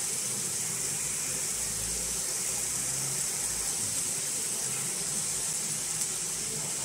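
Chicken, peppers and tomatoes frying in a pan on an induction hob, with a steady sizzle.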